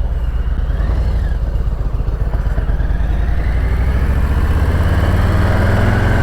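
Harley-Davidson Street Bob's V-twin running through a Two Brothers 2-into-1 exhaust, its note rising steadily from about halfway as the bike accelerates.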